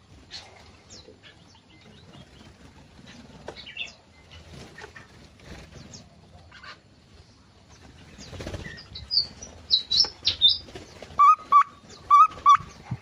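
Small birds in an aviary fluttering and calling: scattered short chirps and wing flaps, a burst of flapping about eight and a half seconds in, then a run of loud, sharp, repeated chirps near the end.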